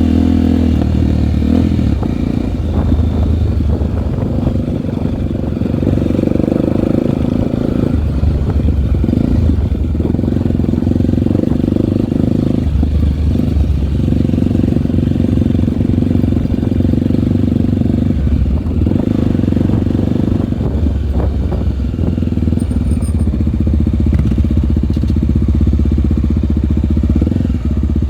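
Single-cylinder four-stroke trail motorcycle engine running while riding, its engine speed rising and falling every few seconds.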